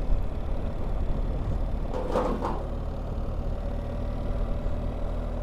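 BMW R1300GS boxer-twin engine running steadily while the motorcycle is ridden along.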